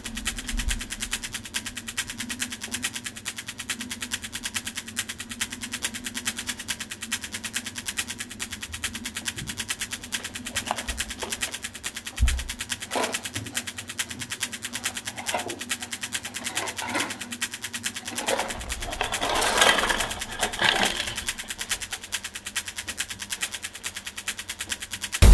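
Rapid, even ticking, many clicks a second, with a few short, brief sounds over it in the second half.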